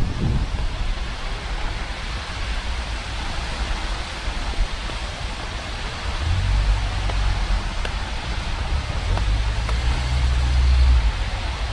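Steady rain falling on the ground and surfaces around, with a low rumble that swells in the second half and fades near the end.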